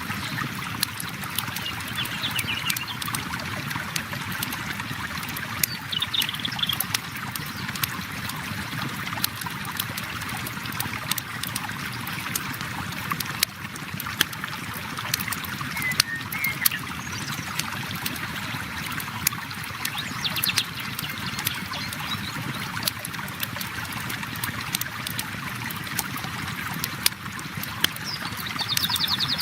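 River water flowing steadily, mixed with a campfire's wood crackling in many sharp pops. A few brief high chirps come through now and then.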